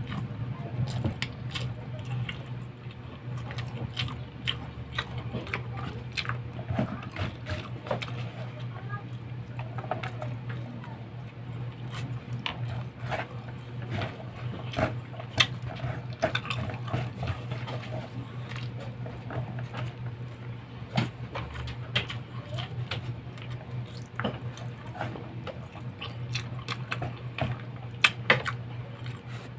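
Close-up mukbang eating sounds of a man eating rice and meat by hand: irregular wet chewing, lip smacks and mouth clicks throughout, over a steady low hum.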